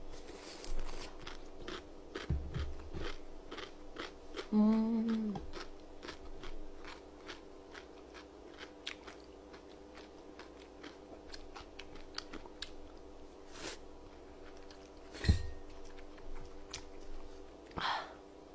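Close-miked chewing and biting of food, with many small wet mouth clicks over a faint steady hum, and a short hummed voice sound about five seconds in. A sharp thump comes past the middle, and near the end there is a crunchy bite into fried chicken.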